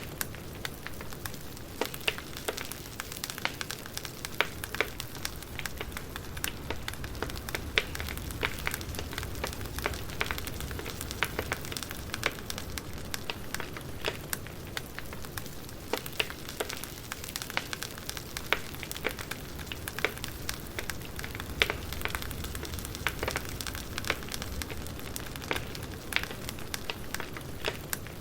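Wood fire crackling: frequent irregular sharp pops and snaps over a steady soft hiss and low rumble.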